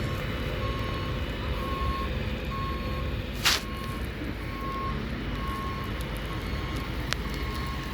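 A vehicle's reversing alarm beeping steadily, a little more often than once a second, over a constant low engine rumble. A short sharp hiss cuts in about three and a half seconds in.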